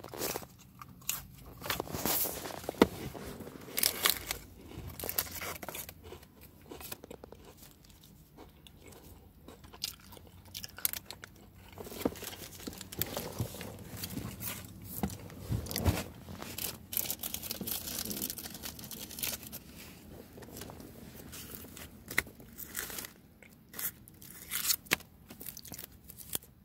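A person chewing and crunching crackers with tuna salad close to the microphone: irregular, crisp crunching bites and chewing throughout.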